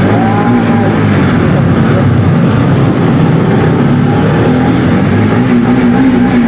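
A vehicle engine running at steady speed with continuous road and wind noise, heard while driving through a road tunnel.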